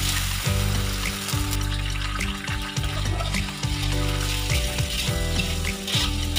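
Raw chicken pieces sizzling in hot oil in a wok as they are tipped in and stirred with a metal spatula, with background music underneath.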